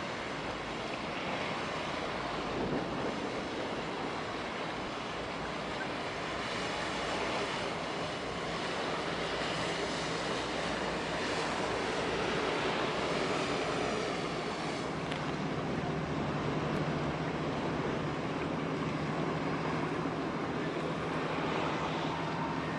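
Steady rush of wind and water, with a low, even engine hum from a boat coming in about two-thirds of the way through.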